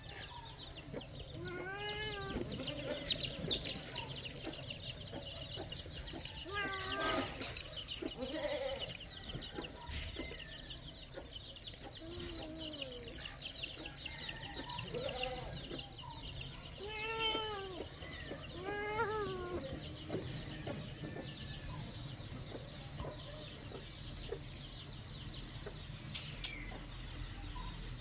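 Animal calls, each one drawn-out and rising then falling in pitch, repeated every few seconds over a constant high-pitched chirping din.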